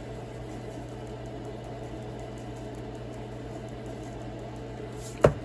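Steady hum of a running kitchen appliance, with one sharp knock near the end.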